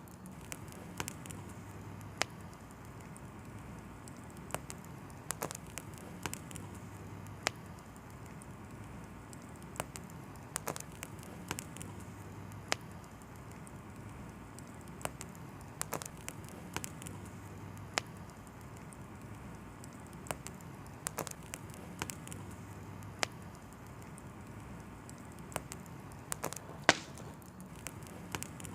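Wood fire in a fireplace crackling: irregular sharp pops and snaps, a few every second or so, over a steady low hiss, with one louder pop near the end.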